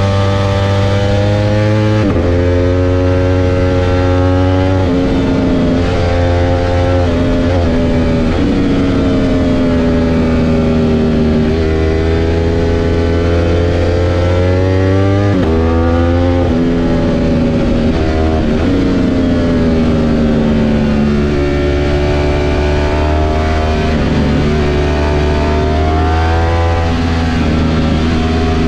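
Ducati V4 S sportbike's V4 engine heard from the rider's seat, pulling up through the revs and dropping sharply at each gear change several times, then easing off and pulling again through the corners, over steady wind rush.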